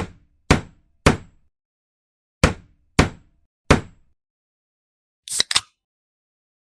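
Six sharp knocks in two groups of three, each about half a second apart and dying away quickly, followed near the end by two short hissing bursts.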